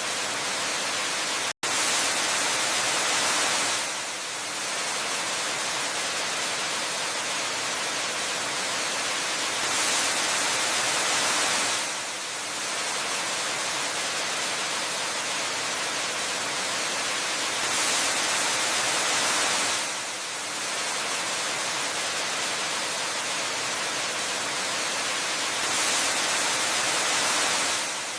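Steady rushing hiss of a waterfall, swelling louder for about two seconds roughly every eight seconds. The sound cuts out for a split second about one and a half seconds in.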